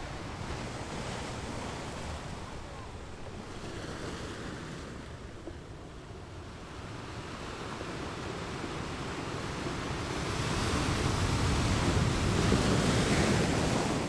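Ocean waves crashing on rocks: a continuous wash of surf that builds over the second half to a loud crash a few seconds before the end.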